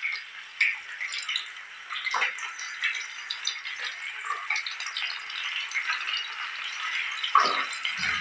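Fish frying in hot oil in a pan: a steady sizzle with scattered pops and a few louder crackles.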